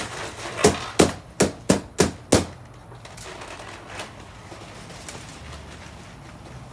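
Balloons popping: six sharp pops in quick succession, about three a second, then a single faint pop a little later.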